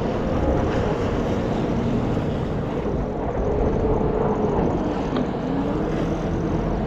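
Jet ski engines running out on the water during a race. Their drone slowly rises and falls in pitch over a rushing wash of wind and water.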